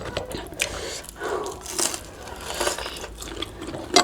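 Close-up mukbang eating sounds: food being torn and bitten, with chewing, heard as a string of short, irregular noises.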